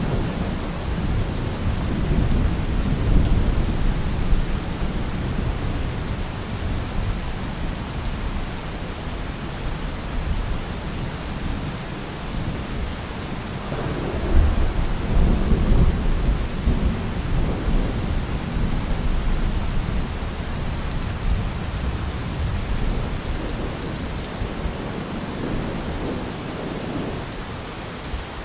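Thunderstorm: steady heavy rain with low rolling thunder. About halfway a louder thunderclap breaks in and rumbles on, slowly fading.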